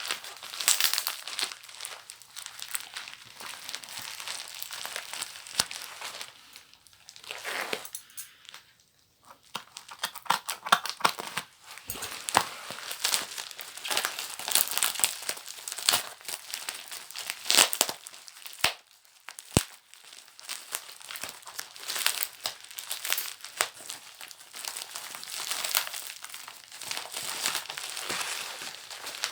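Paper packaging of a mailed book parcel being handled, crinkled and torn open, with dense crackling and sharp clicks and a couple of brief pauses.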